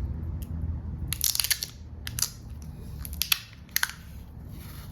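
Hands handling small parts and packaging at close range: bursts of crinkling and sharp clicks about a second in, again around two seconds, and a few louder clicks past the three-second mark, over a low rumble of handling noise.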